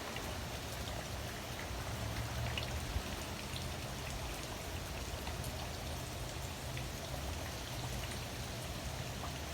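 Steady hurricane rain falling, a continuous hiss with scattered individual drops ticking.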